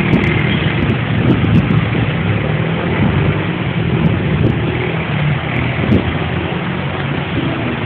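Steady rain with a vehicle engine idling: a low, even engine hum under a constant hiss.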